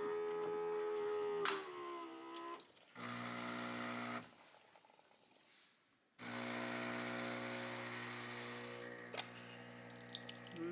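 Terra Kaffe bean-to-cup espresso machine at work: its motor hums in two short stretches, then after a quiet gap of about two seconds a steady low hum begins as it pulls an espresso shot.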